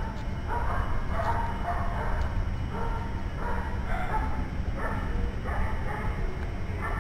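Animal calls repeated in short, harsh bursts, two or three a second, over a steady low rumble.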